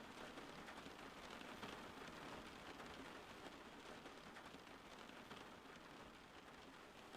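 Faint, steady rain: an even hiss with a fine patter of drops.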